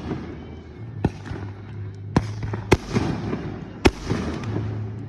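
Aerial fireworks bursting close overhead: four sharp bangs at uneven intervals of about a second, with a low hum underneath.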